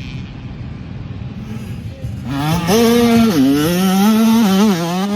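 Dirt bike engine rumbling low for about two seconds, then revving hard: the pitch climbs, dips and wavers as the throttle is worked.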